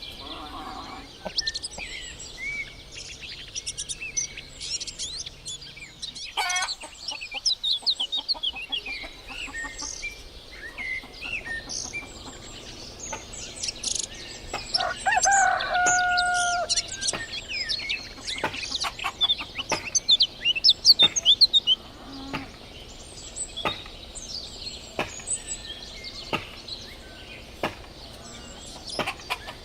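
Small birds chirping and twittering, with a rooster crowing once for about two seconds about halfway through.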